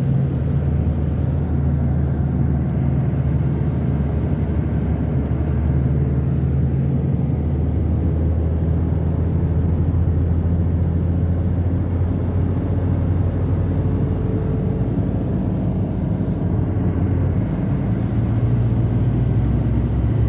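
A car's engine and road noise: a steady low drone whose pitch shifts slightly a few times.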